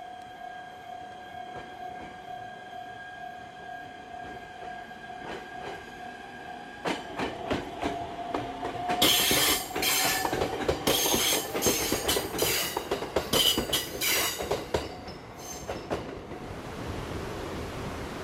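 JR East E127 series electric train running slowly through the station tracks. A steady high whine is heard first. From about seven seconds in, the wheels clatter over rail joints and points, with loud sharp squeals and clanks as the cars pass close, and the sound fades away near the end.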